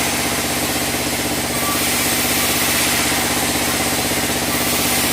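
Sawmill band saw running steadily: a fast, even engine-like throb under a constant high hiss, with no change in pace.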